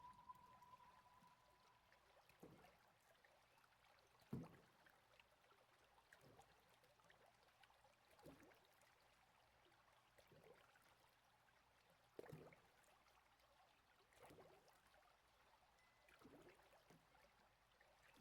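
Faint flowing water, with a soft splash or drip about every two seconds. A held high note fades out in the first second or so.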